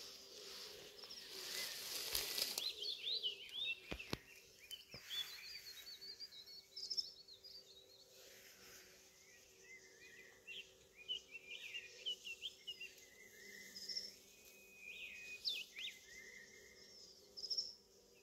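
Small birds chirping and calling in short, scattered notes over a faint steady hum, with a couple of soft knocks about four and five seconds in.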